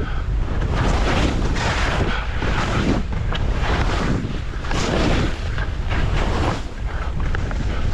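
Wind rushing over the microphone in a heavy low rumble, with a hiss that swells and fades about once a second, typical of skis turning through snow.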